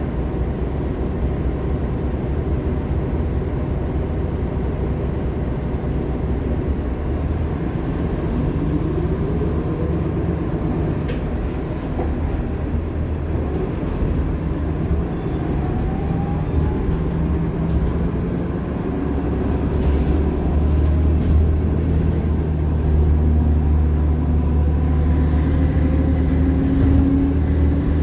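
Nova LFSA hybrid articulated bus running, heard from inside the cabin: a steady low rumble from the Cummins ISL9 diesel and Allison hybrid drive, with whines that rise in pitch as it pulls away. It gets louder about two-thirds of the way through as the bus accelerates again.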